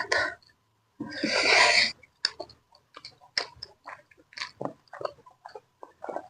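Close-up mouth sounds of someone eating noodles: a loud rush of air lasting about a second, then a run of irregular wet chewing smacks and clicks.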